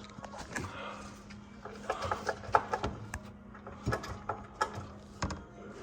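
Scattered knocks and clunks of a wooden 2x4 block being handled and set in place under the engine, with a steady low hum underneath.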